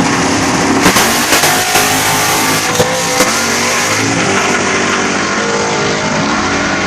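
A car engine running and revving, its pitch rising twice, over a loud steady rush of noise, with a few sharp knocks in the first few seconds.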